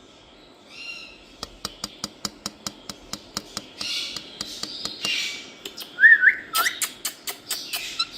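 Pet parrot making harsh squawks and two quick rising, wavy whistles, with runs of sharp rapid clicks, about five a second, before and after.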